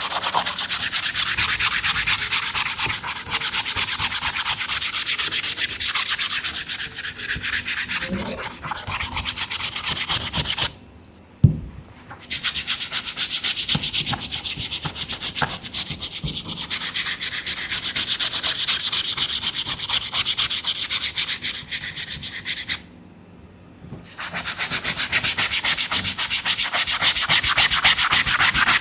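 Fast back-and-forth scrubbing of a sneaker with a cleaning brush. It stops briefly twice, and a single knock sounds in the first stop.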